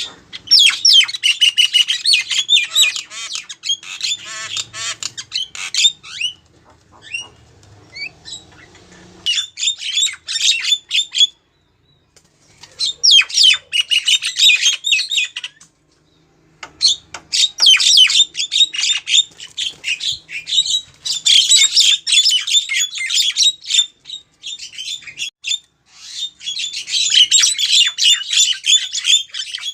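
Female Javan myna (jalak kebo) calling, used as a lure for males: fast strings of harsh squawks and chirps in bouts of a few seconds, broken by short pauses.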